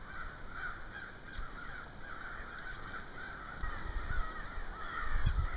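A flock of wild birds calling and chattering without a break, many overlapping chirps at once. A few low thumps come in the second half.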